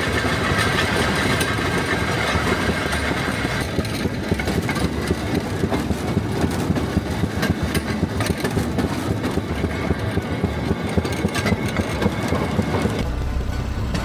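Railroad speeder motor car running along the track, its small engine running steadily. About four seconds in the sound becomes less bright, and near the end it turns to a deeper rumble.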